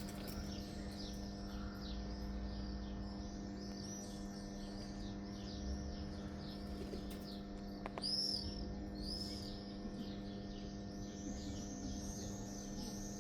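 Small birds chirping in a dense, continuous stream of short high chirps, several a second, over a steady low hum.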